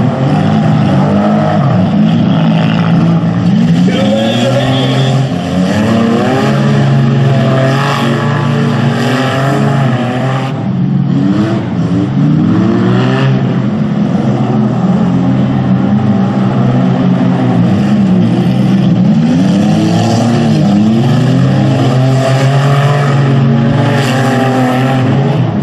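Several demolition derby cars' engines racing around a dirt figure-8 track, loud and continuous, revving up and falling back again and again as the cars accelerate and lift off through the turns.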